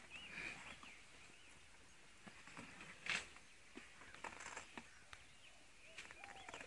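Faint bird chirps in the background, short rising and falling calls, with a single sharp knock about three seconds in.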